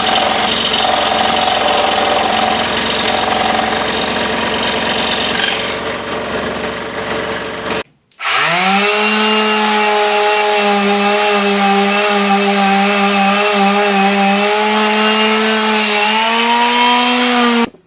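Scroll saw cutting through quarter-inch cherry board, a steady rasping saw noise over the motor hum. After a short break about eight seconds in, the saw starts up again, rising quickly to a steady hum, and cuts off suddenly near the end.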